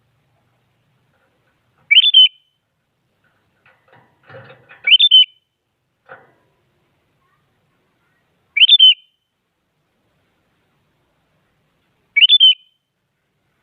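Sooty-headed bulbul (kutilang) singing: four short, loud, whistled phrases spaced a few seconds apart, each a quick run of notes that rises and then falls.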